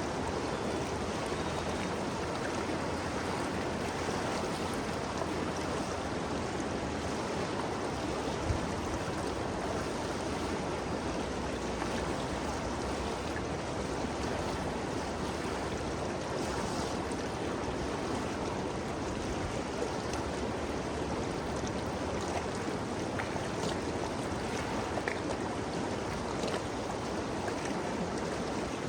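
Ganges River flowing, a steady, even rush of moving water with a few faint ticks of splashing.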